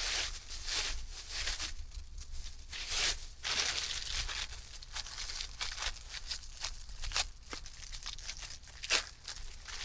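Irregular crinkling and rustling, with a few sharp clicks, typical of material being handled and torn.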